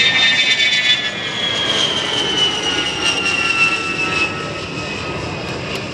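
An A-10 Thunderbolt II's twin TF34 turbofans whining in a flyby, the whine sliding steadily down in pitch as the jet passes and moves away. It is loudest in the first second, then eases off.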